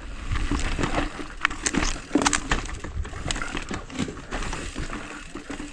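Mountain bike rolling down a rocky trail: a dense, irregular clatter of sharp clicks and knocks as the tyres, frame and drivetrain rattle over rock, over a steady low rumble.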